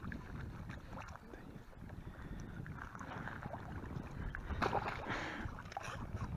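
Wind rumbling on the microphone over water lapping at the bank, with scattered small clicks and a brief louder splashy rustle about four and a half seconds in.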